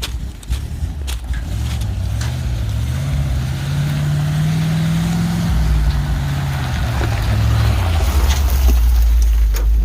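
1970 Chevrolet dump truck's engine running, its speed climbing steadily for a few seconds and then dropping back about eight seconds in to a low, steady idle. A few sharp clicks sound in the first two seconds.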